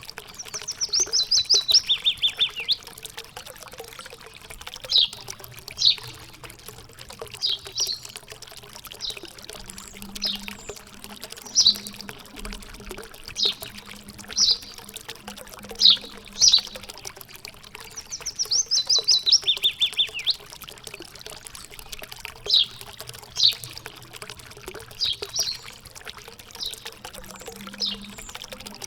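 Songbirds calling over a steady sound of running water. A fast descending trill comes twice, near the start and about two-thirds of the way through, with single short chirps scattered between.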